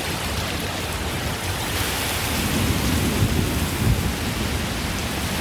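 Torrential rain pouring down in a steady dense hiss. A low rumble swells about two seconds in and fades by about four seconds.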